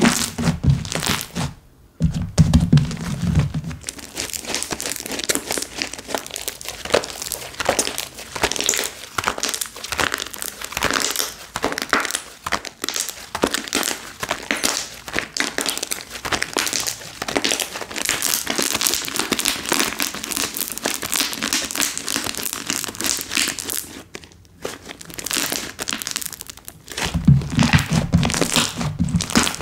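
Hands squeezing and stretching slime, with dense crackling and popping. There are duller squishing sounds in the first few seconds and again near the end.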